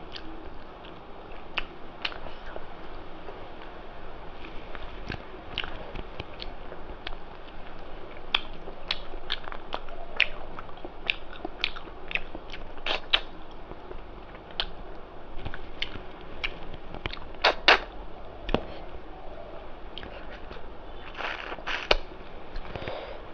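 A person chewing and eating rice with mutton curry, with frequent wet mouth clicks and smacks; a louder pair of clicks comes about seventeen seconds in.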